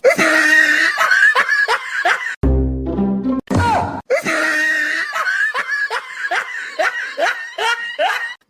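Laughter, likely an edited-in laugh sound effect: a fast string of short falling "ha" cries, about two or three a second, over music, with a brief low musical stretch in the middle.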